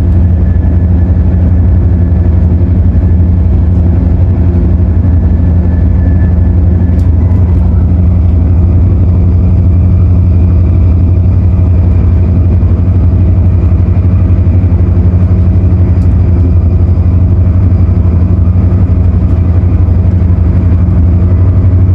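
Steady, loud running drone inside an Airport Express CAF train at speed: a deep, constant hum with faint steady tones over it.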